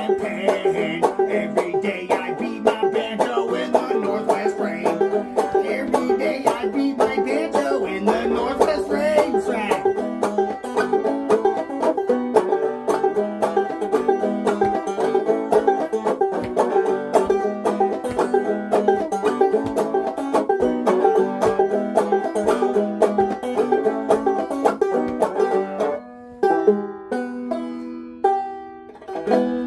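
Clawhammer banjo playing a fast run of rolling plucked notes. Near the end it slows to a few separate ringing notes and a final chord that rings out.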